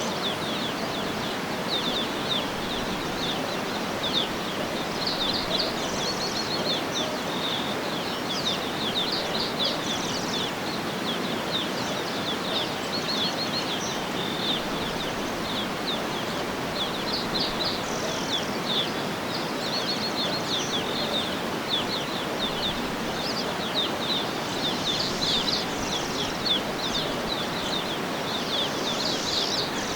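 Many birds chirping and singing over a steady, even background hiss, with quick high chirps coming thick and fast throughout.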